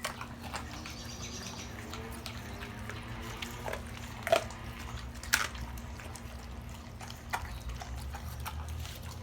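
Large dogs eating raw chicken: wet smacking and clicking chews, with two sharper snaps about four and five seconds in, over a steady low hum.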